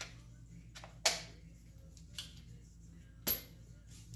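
Plastic clicks and knocks from handling a Bauer cordless angle grinder as its battery pack is fitted, with two louder sharp clicks about one second and about three seconds in.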